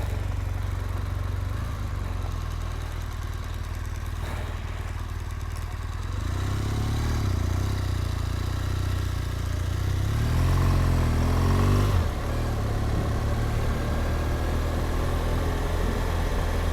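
BMW R1200GSA's boxer-twin engine running low and steady, then getting louder from about six seconds in as the bike pulls away, its pitch rising and falling until about twelve seconds, before settling into a steady run.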